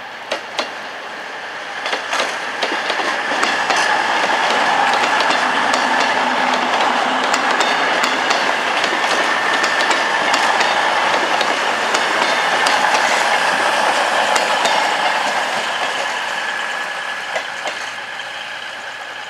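Virgin Voyager diesel-electric multiple unit passing through the station: a steady engine and traction whine with wheels clicking over rail joints and points. It swells over the first few seconds and fades away near the end.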